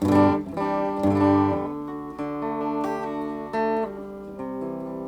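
Electric guitar played through the Positive Grid Reactor 50 combo amp's clean channel, heat switch at neutral, with reverb on: a short phrase of struck chords and notes, each left to ring.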